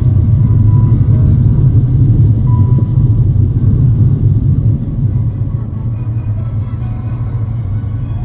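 Airbus A350-900 cabin noise in flight: a steady, loud low rumble of engines and airflow that eases slightly about five seconds in.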